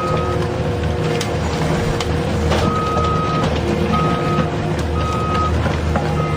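Vehicle reversing alarm beeping over a low engine rumble: a single-pitch beep sounding four times, the beeps of uneven length.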